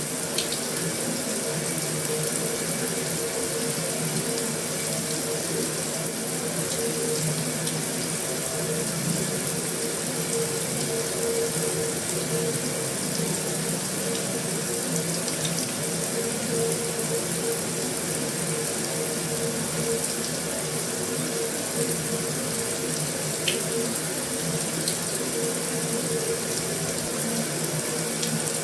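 Heavy rain falling steadily on a metal roof: a dense, even patter with a faint sharper tick here and there.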